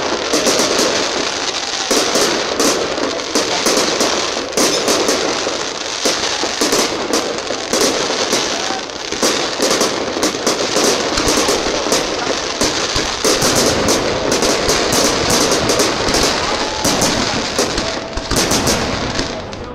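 Fireworks display: a dense, continuous barrage of crackling and popping from many shells and crackle stars bursting overhead, several sharp reports a second.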